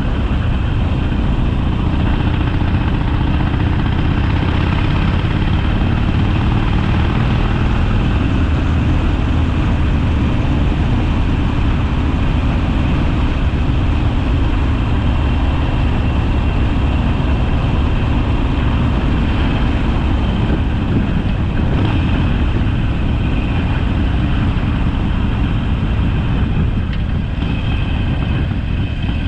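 Harley-Davidson Sportster's air-cooled V-twin engine running steadily while riding along the road.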